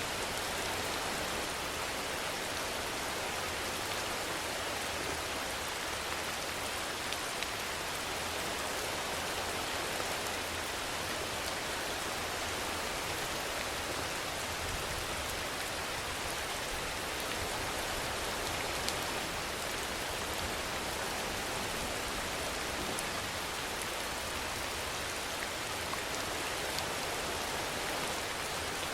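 Steady rainfall, an even hiss of rain on surfaces with the odd single drop ticking out above it.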